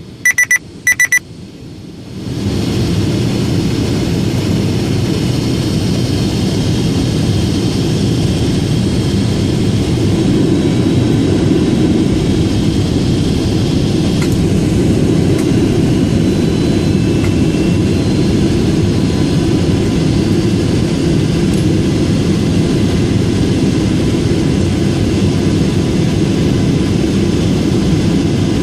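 Steady, loud cabin noise of a Boeing 777-200ER in flight on approach: engine drone and airflow heard from inside the cabin. A few short electronic beeps and a brief dip in the noise come right at the start.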